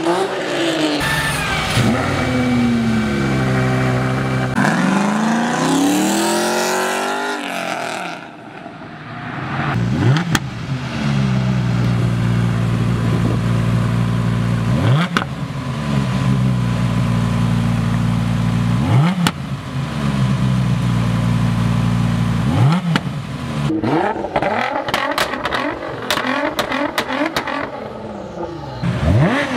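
Performance car engines revving and accelerating, the pitch rising and falling repeatedly, with sharp swings in pitch every few seconds.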